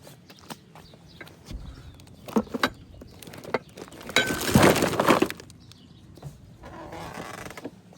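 Kitchen dishes and bowls clinking and knocking: scattered light clinks, then one louder rattling clatter about four seconds in.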